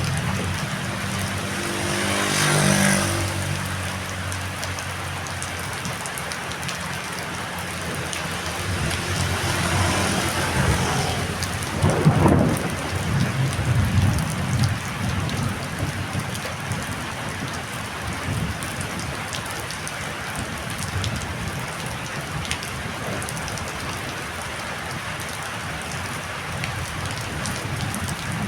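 Heavy storm rain falling steadily, with a louder rushing swell about two seconds in and low rumbling swells between about ten and fourteen seconds in.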